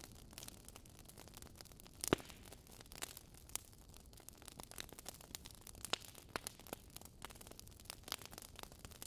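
Fire crackling: irregular small pops and snaps over a soft, steady hiss, with one louder pop about two seconds in.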